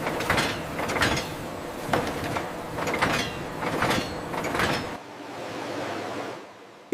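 Factory machinery running, with a steady noisy hum and rhythmic clacks about twice a second. About five seconds in, the low rumble stops and a hiss fades away.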